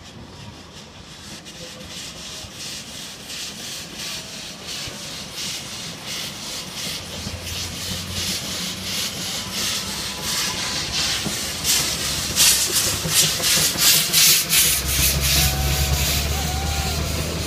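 Puffing Billy narrow-gauge steam locomotive chuffing, the exhaust beats growing louder and more frequent and loudest about twelve to fifteen seconds in, over a low rumble.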